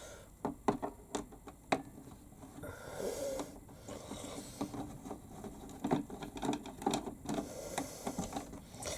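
A flathead screwdriver working the screws of a plastic toy washing machine's casing: a run of sharp clicks and knocks with short scraping stretches between them. The blade is slipping in crosshead screws that are stiff and likely never undone.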